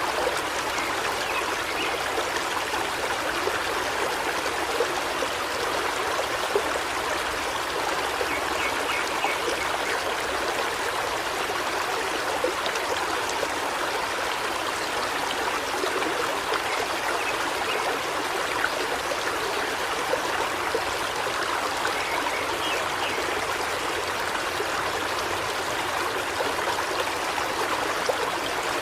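Forest river flowing steadily over rocks, an even rushing and trickling of water.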